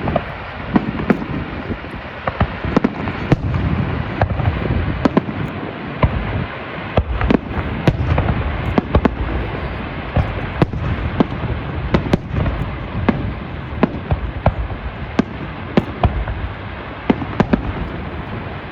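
Fireworks display going off: a steady run of sharp bangs, several a second, over a continuous rumble and crackle of bursting shells.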